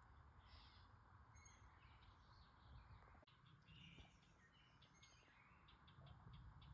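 Near silence: faint evening ambience with scattered faint, high, short bird-like chirps and calls.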